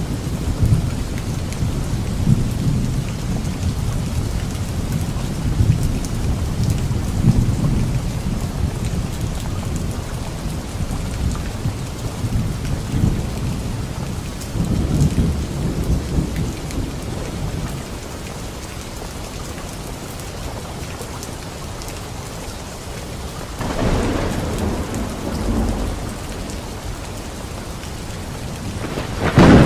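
Light rain falling steadily on leaves, with rolling thunder. The rumble is strong for the first half and fades about 17 s in; another roll swells up about 24 s in, and a louder one breaks near the end.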